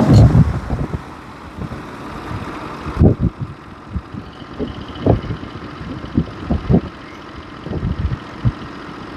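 Norwood portable bandsaw mill: loud running and cutting noise drops away about a second in, then the engine runs low and steady while a string of separate knocks and clunks sound over it.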